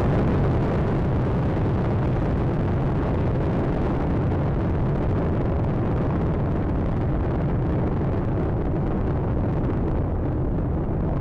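Space Shuttle Atlantis in ascent: the steady low rumble of its solid rocket boosters and main engines, with the higher part of the noise thinning a little near the end.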